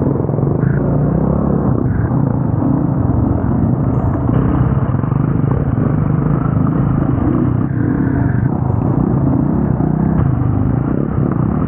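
Enduro motorcycle engine running steadily under way, its pitch shifting only a little.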